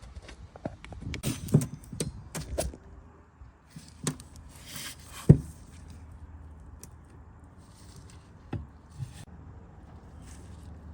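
Scattered clicks and knocks of parts and tools being handled on a workbench: a cluster of light knocks in the first few seconds, one sharper knock about five seconds in, and two more near the end.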